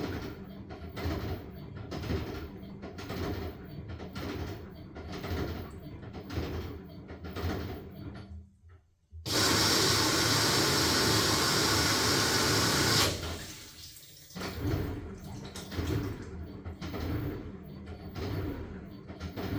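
LG washing machine tumbling a load of blankets, the wet laundry swishing about once a second; the drum pauses, then water rushes in loudly for about four seconds before cutting off, and the tumbling starts again.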